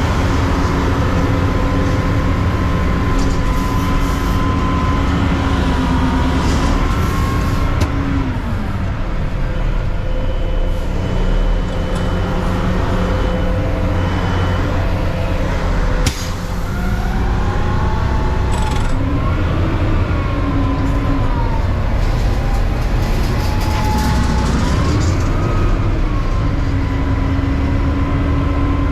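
Front-end recycling truck's Mack CNG engine running under load with a hydraulic whine, its pitch rising and falling several times as the engine revs. There is a single sharp bang about 16 seconds in.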